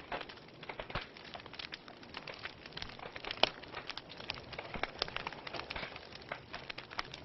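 Wood fire burning in a fireplace: logs crackling with irregular sharp pops over a soft hiss, one louder pop about three and a half seconds in.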